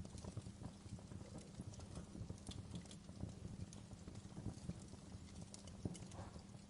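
Wood fire burning in a fireplace: irregular crackles and small pops from the burning logs over a low, steady rumble of the flames.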